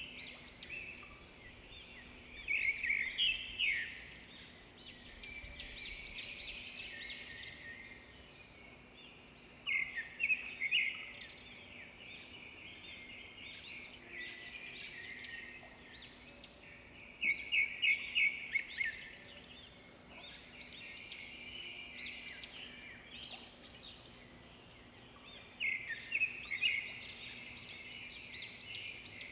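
Small birds chirping and singing: rapid high chirps throughout, with louder flurries of quick notes every several seconds, about 3, 10, 18 and 26 seconds in. A faint steady hum lies underneath.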